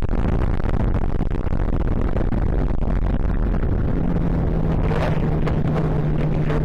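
Ultralight aircraft engine and propeller running steadily in flight, heard from the open cockpit as a dense, steady noise. A steady low drone note comes in about four seconds in.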